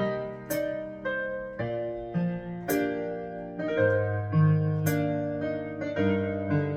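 Slow keyboard music: piano-like chords held and changed every second or so, with a bright accent about every two seconds.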